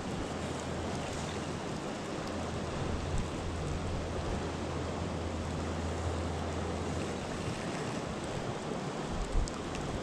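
Steady rushing wind and water noise, with a low hum underneath that stops about seven seconds in, and a single dull thump near the end.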